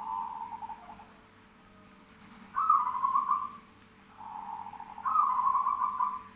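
Zebra dove (perkutut) singing: three rolling cooing phrases, each a fast run of pulsed notes, the second and third louder than the first.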